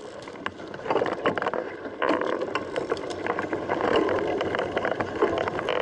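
Riding noise from a mountain bike on the move: steady rolling noise with frequent small rattles and clicks.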